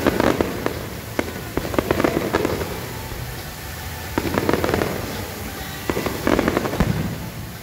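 Aerial fireworks shells bursting in four clusters of rapid sharp bangs and crackles, the crackling stars of each cluster popping in quick succession.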